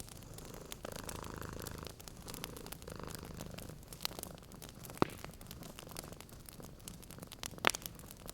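Wood fire crackling in a fireplace, with scattered sharp pops over a cat's steady low purr. The two loudest pops come about five seconds in and near the end.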